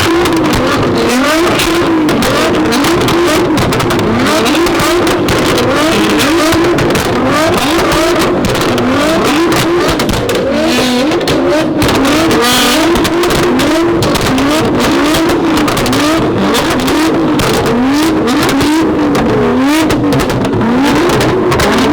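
A performance car engine revved hard over and over with an open, loud exhaust. Each rev climbs sharply in pitch and falls back, about once a second, with sharp crackles throughout. There is a brief hiss about halfway through.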